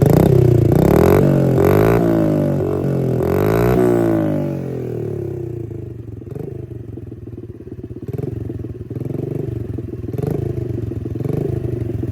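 Honda XR50 pit bike's small single-cylinder four-stroke engine running through a homemade silencer, a tube blocked at the end and drilled with many small holes. It is revved up and down several times, then settles to a quieter idle about five seconds in.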